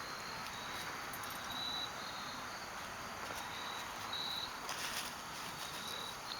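Crickets chirping in short high-pitched trills, repeating every half second or so over a steady background hiss, with a brief scratchy rustle about five seconds in.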